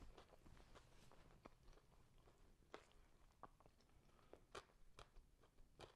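Faint chewing of a mouthful of Big Mac, with a few soft crunches and mouth clicks scattered through.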